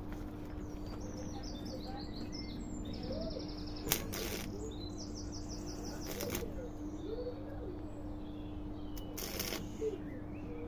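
A small bird sings rapid trills of quickly repeated high chirps, twice, over a steady low hum. A sharp click and a few short hissing bursts break in, the loudest about four seconds in and again near the end.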